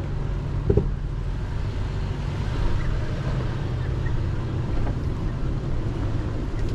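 Toyota 4Runner's engine running steadily at low crawling speed on a rocky trail, a continuous low drone, with one short knock about a second in.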